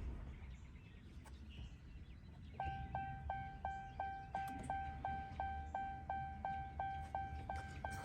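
Ram truck's door-open warning chime: a steady run of identical electronic dings, about three a second, starting about two and a half seconds in.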